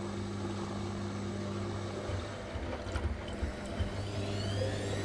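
Washing machine running: a steady motor hum with light knocks, then a whine that rises in pitch from about three seconds in as the drum spins up.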